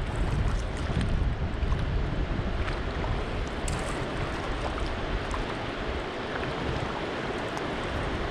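River water rushing through a rapid, with wind rumbling on the microphone more strongly in the first half and scattered light ticks.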